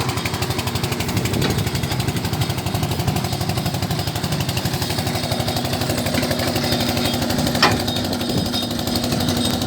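Tractor engine running steadily with a rapid, even pulsing beat; a sharp click about seven and a half seconds in.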